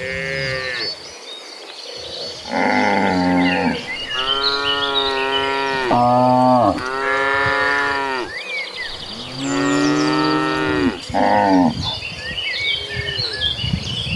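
A herd of cattle mooing, several cows calling one after another, about seven long moos at different pitches. Faint high chirping of birds or insects runs behind them.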